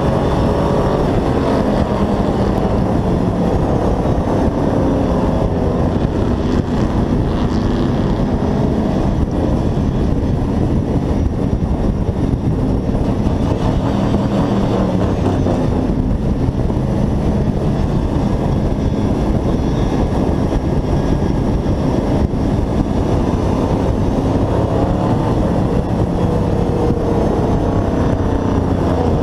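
Hobby-class race truck's engine heard from on board, running hard with its pitch rising and falling as it revs and eases off, over heavy wind and road noise.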